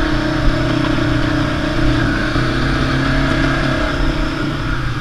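Quad bike (ATV) engine running at a steady, even pitch while being ridden.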